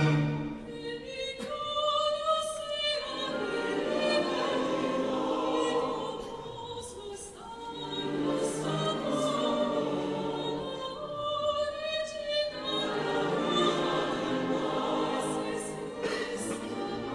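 Choir singing a slow, sustained passage, with the sound easing briefly about seven seconds in before swelling again.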